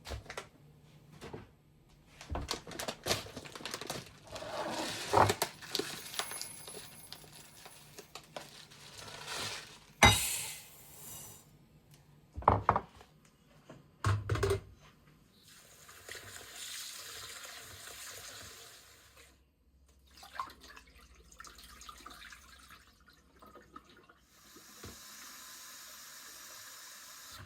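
Kitchen tap running into a sink twice, for about four seconds past the middle and again near the end. Before that come knocks and clatter of dishes and pans, the loudest sharp knock about ten seconds in.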